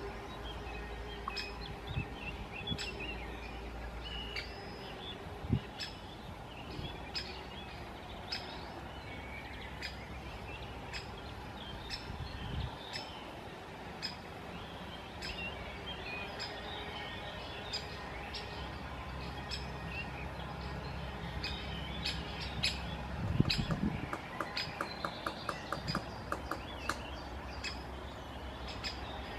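Great spotted woodpecker knocking at cherry stones: sharp single taps scattered throughout, and a quick run of about six taps a second a little before the end. Other birds chirp faintly in the background.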